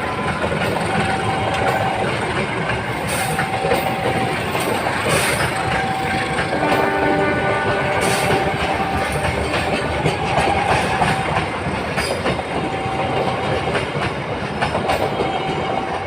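Tawang Alun passenger train passing close by: a steady loud rumble of wheels clattering over the rail joints, with short steady tones sounding off and on and a cluster of tones about seven seconds in.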